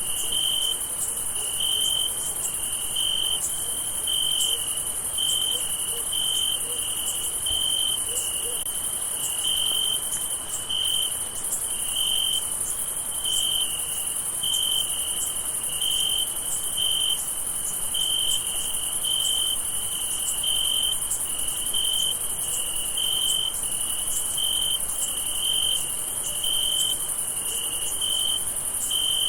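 Crickets chirping on a summer night: one repeats a clear, pulsed chirp about once a second over a continuous high-pitched insect trill.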